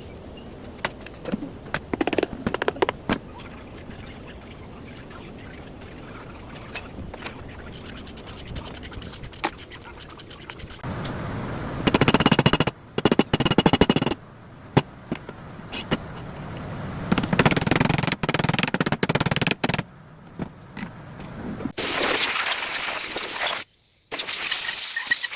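Workshop tool noise: scattered clicks, then several bursts of rapid mechanical rattling and clatter lasting a few seconds each.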